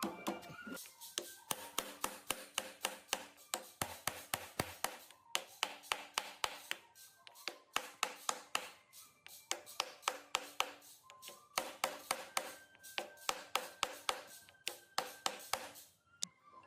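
Rapid sharp taps, about four to five a second, in runs with short breaks, over faint background music.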